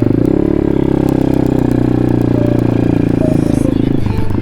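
Apollo pit bike's single-cylinder four-stroke engine running steadily under throttle while riding, its pitch climbing a little at the start and dipping briefly near the end.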